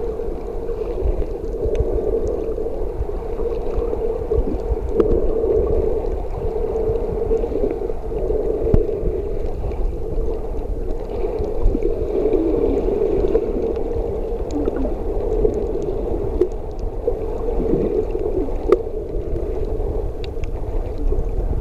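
Muffled underwater sound, as picked up by a camera in a waterproof housing: a steady hum with gurgling and scattered faint clicks.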